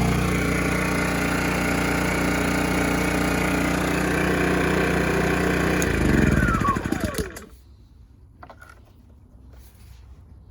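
Draper 1000 W inverter generator's small engine running steadily, then stopping about six seconds in: a brief surge, then the pitch falls as it runs down to a halt within about a second and a half. A few faint clicks follow.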